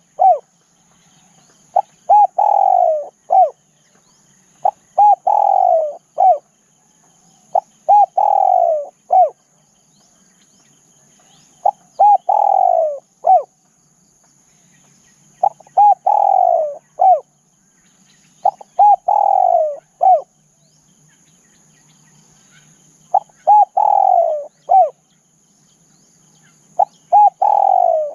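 Spotted dove cooing its repeated call about eight times, one every three to four seconds. Each phrase is a couple of short coos, a longer falling coo and a short closing note.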